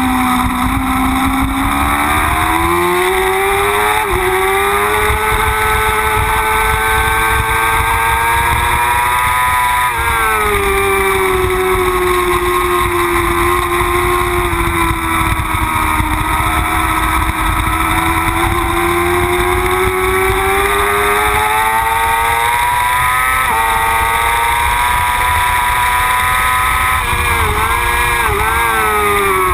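Yamaha R6 race bike's inline-four engine at speed, heard onboard: its pitch climbs and falls through the corners with sudden drops at gear changes, and a run of quick dips near the end as it shifts down. Wind rumbles over the mounted camera underneath.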